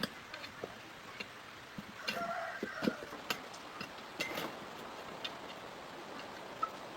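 Scattered light clicks and taps of hand tools and small metal parts being handled during a motorcycle inner-tube repair, with a brief squeak about two seconds in.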